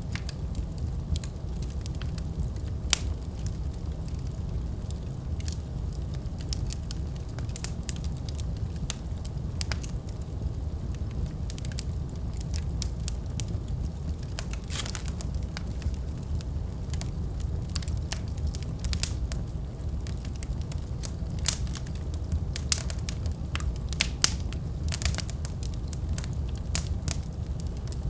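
Fireplace fire crackling: a steady low rumble of burning under scattered sharp pops and snaps, which come more thickly in the second half.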